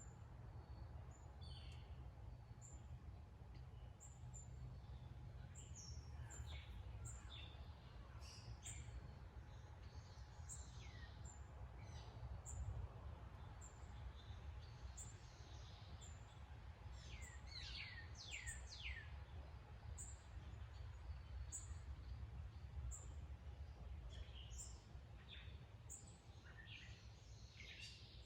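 Birds chirping faintly in the background, with short high chirps repeating every second or two and a run of three quick downward-sliding calls about two-thirds of the way through, over a steady low outdoor rumble.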